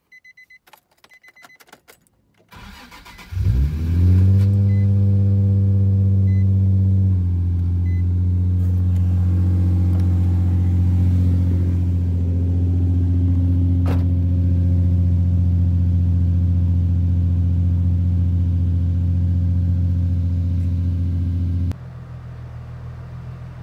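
Nissan 350Z's 3.5-litre V6 being started after a few short beeps: it cranks, catches about three seconds in and flares up, then settles a few seconds later into a steady idle. The sound drops abruptly to a lower level near the end.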